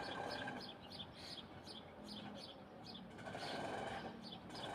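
Small birds chirping in a rapid, irregular run of short high notes, with a lower, longer call near the start and again about three seconds in.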